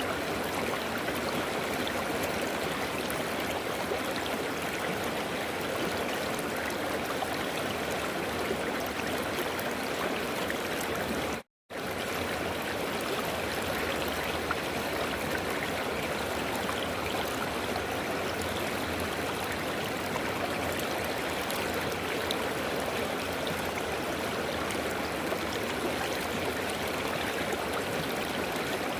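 River water flowing and rushing over stones in a steady, unbroken stream. It cuts out completely for a moment about eleven seconds in.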